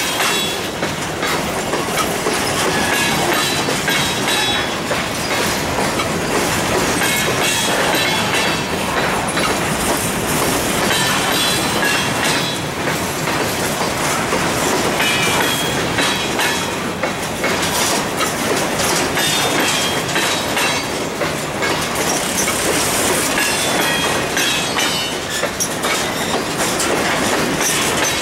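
Empty covered hopper cars of a grain train rolling past close by: a steady din of steel wheels running on the rails, cut by many quick clacks and short, high-pitched wheel squeals that come and go.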